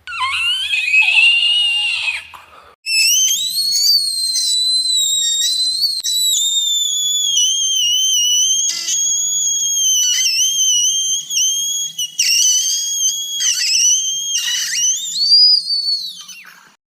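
High-pitched whistling tone: a short gliding squeal first, then one long wavering whistle held for most of the rest, with a few quick dips in pitch.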